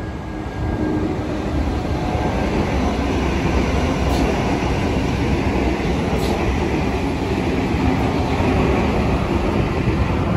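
Sydney Trains double-deck electric passenger train passing at speed, a loud steady rumble of wheels on rails.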